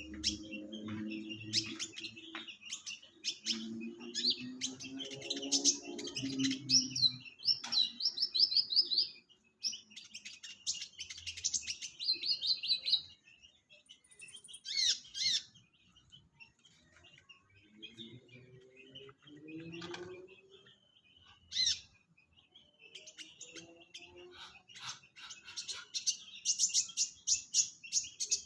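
Kolibri ninja (a small sunbird) singing: rapid high-pitched chirps and quick trilled runs, with sparser calls in the middle stretch before the song picks up again near the end.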